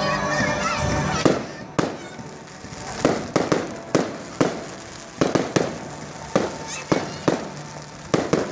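Fireworks display finale: a steady rush in the first second, then an irregular series of sharp bangs, more than a dozen shells bursting one to three a second.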